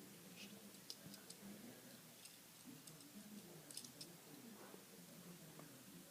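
Faint, scattered clicks of small plastic Lego pieces being handled and pressed together, over near-silent room tone.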